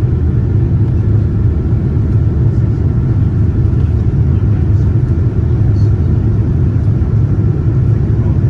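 Steady, unchanging airliner cabin rumble of a Boeing 787-9 with GEnx engines in flight: airflow and engine noise heard from inside the cabin, with a faint steady whine over the low rumble.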